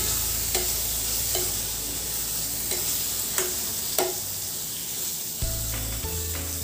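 Onion, tomato and spice masala sizzling in hot oil in a pan while a spatula stirs it, with a short scrape or tap of the spatula against the pan every second or so.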